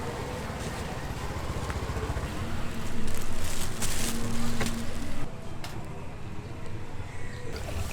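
Street traffic going by, with a vehicle, most likely a motorbike, passing louder for a couple of seconds near the middle, over a steady low rumble and faint voices.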